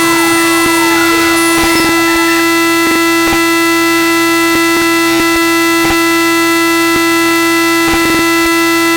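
A loud, harsh, steady alarm-like tone held at one pitch, with faint clicks over it.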